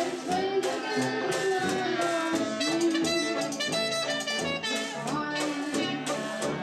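Jazz band playing a slow standard, with a melody line over a full accompaniment.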